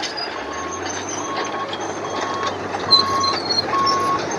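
A vehicle's reversing alarm beeping, one steady mid-pitched beep roughly every second, over outdoor background noise and a low engine hum.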